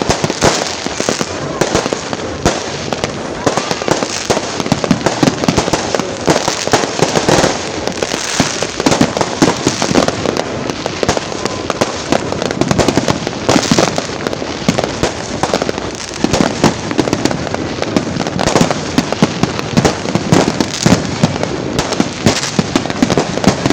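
Fireworks going off without pause: a dense, loud run of bangs and crackles.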